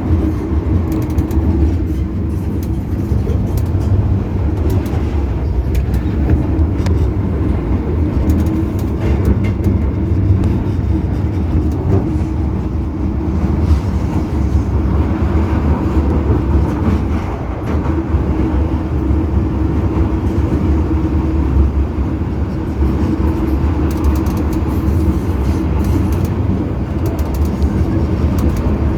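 MTR metro train running into a station: a steady low rumble with scattered clicks.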